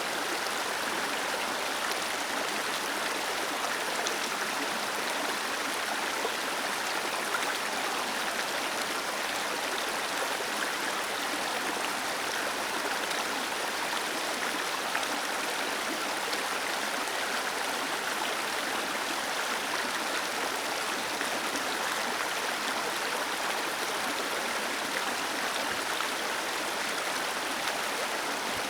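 Waterfall cascading over rocks: a steady, unbroken rush of falling water, mostly hiss and splash with little low rumble.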